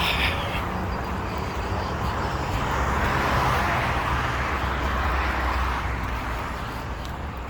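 Road traffic: a vehicle passing on the parkway, its tyre and engine noise swelling to a peak about three seconds in and then fading away.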